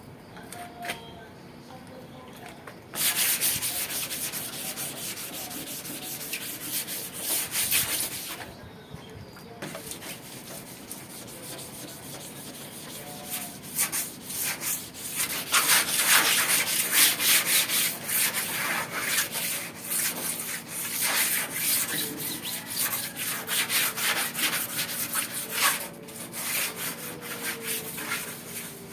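Fine sandpaper scrubbed by hand in quick back-and-forth strokes over the sheet metal of a rusty exhaust hood, smoothing the surface before painting. It starts about three seconds in, stops briefly around eight seconds, and picks up again for a longer spell that fades out near the end.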